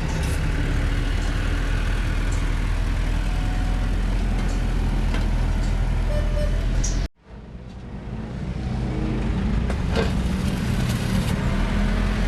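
A vehicle engine running steadily, with the sound cutting out suddenly about seven seconds in and fading back up.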